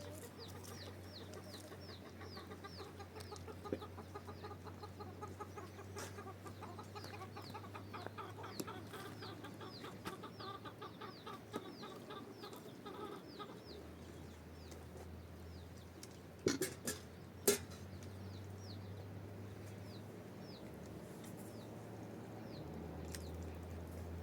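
Birds calling: a run of short, falling high chirps, about three a second, over lower repeated calls. A few sharp knocks stand out about two-thirds of the way through.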